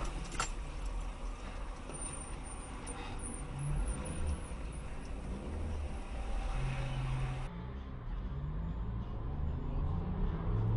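Motor vehicle engine running with road noise. A couple of sharp clicks at the very start, and the sound changes abruptly about two-thirds of the way through.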